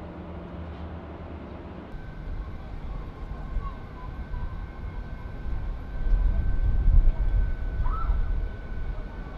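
Jet airliner engine noise: a steady high whine over a low rumble that grows loud about six seconds in.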